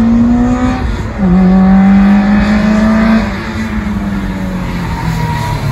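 Honda B20B four-cylinder on individual throttle bodies accelerating hard, the engine note rising, dipping at a gear change about a second in, then rising again. A little after three seconds in the driver lifts off and the revs fall.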